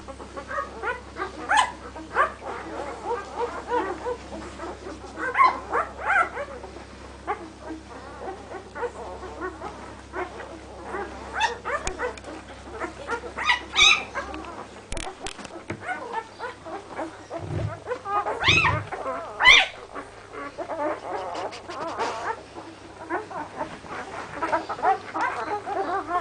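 Six-day-old puppies squeaking and whimpering, many short, high calls overlapping one another.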